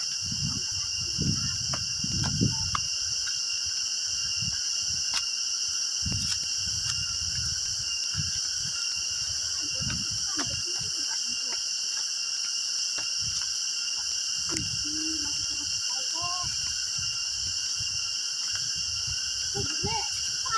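A steady, high-pitched chorus of insects in tropical forest undergrowth, with irregular low thumps of footsteps and handling and faint voices late on.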